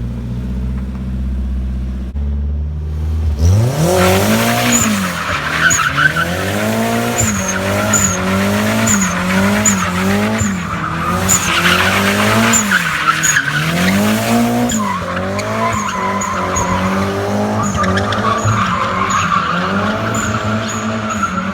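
BMW E36's engine revving up and down about once a second while drifting, with tyre squeal underneath. For the first three seconds or so there is only a low, steady engine note before the revving starts.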